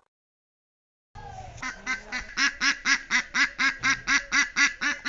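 An animal call sequence: after about a second of silence, a fast, even run of short nasal calls, about four or five a second, growing louder over the first second.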